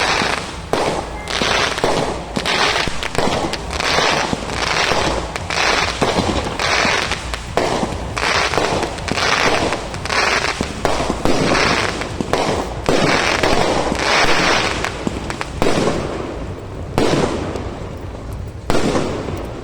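Fireworks display: bursts going off in quick succession, about one or two a second, with crackle. They ease off briefly about three-quarters of the way through, then another burst comes near the end.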